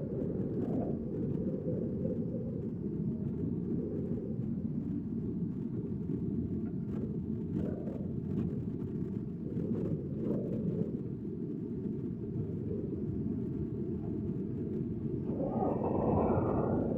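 Strong wind buffeting the microphone: a steady low rumble throughout, with a brief higher pitched sound near the end.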